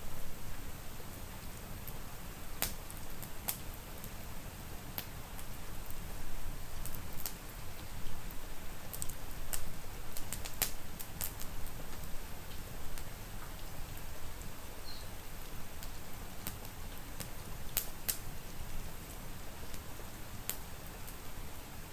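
Wood fire crackling in a fireplace, with irregular sharp pops every second or so, over a steady hiss of rain.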